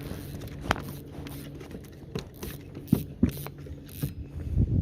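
Scattered knocks and clicks of a landed bass and gear being handled on a plastic kayak, over a faint steady low hum. The sharpest knocks come about three seconds in and just before the end.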